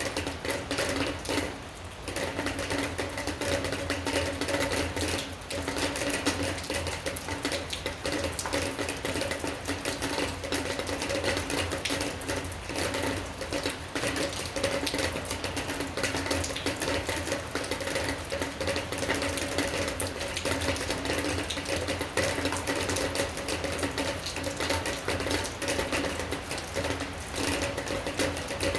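Steady rain, a dense rapid patter of drops striking a surface, with a steady low hum under it.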